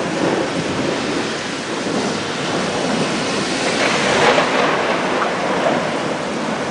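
Thunderstorm: heavy rain with rolling thunder, swelling louder about four seconds in.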